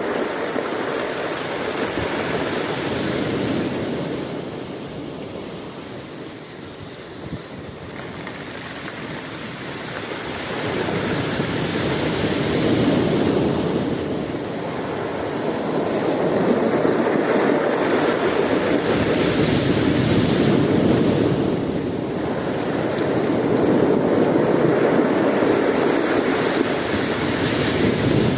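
Ocean waves breaking and washing on a shore, the surf swelling and ebbing every few seconds, with some wind on the microphone.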